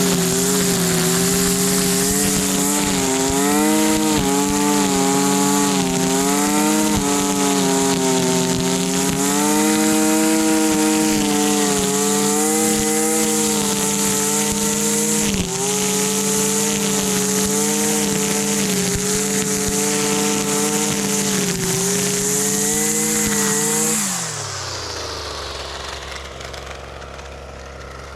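Husqvarna 326LD string trimmer's small two-stroke engine running at high revs, its pitch wavering, with a brief dip partway through. Near the end the throttle is let go and it falls to a low, steady idle.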